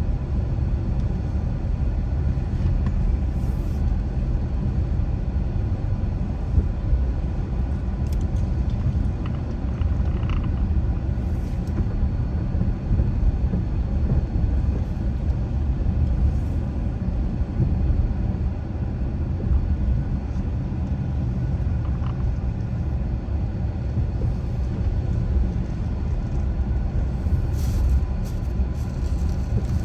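Steady low road rumble of a car driving: tyre and engine noise.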